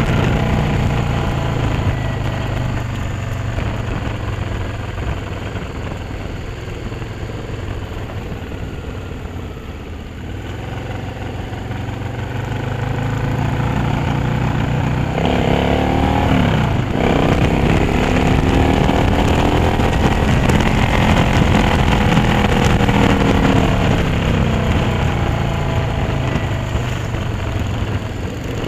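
Motorcycle engine running under way, heard from on board the bike. The note eases off and quietens about a third of the way in, then climbs again; about halfway there is a quick swoop up and sharp drop in pitch, after which the engine runs higher and louder with gentle rises and falls.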